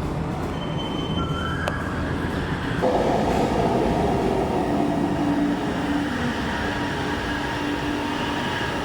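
Electric metro train running, a steady rumble with several steady whining tones over it. It grows louder and fuller about three seconds in.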